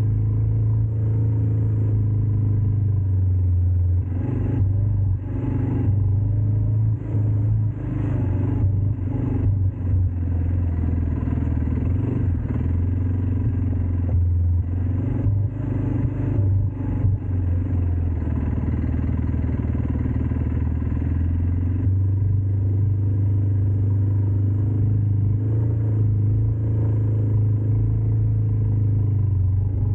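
ATV engine running steadily with a low hum, with irregular rattles and knocks from about four seconds in until about twenty-two seconds in.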